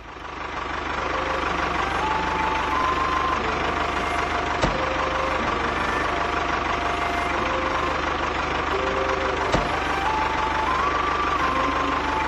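A small motor running steadily, with a simple tune of held notes wandering up and down over it and two sharp clicks about five seconds apart.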